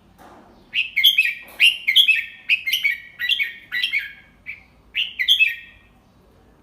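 Red-whiskered bulbul singing one song phrase: a quick run of about a dozen short, warbling whistled notes lasting about five seconds.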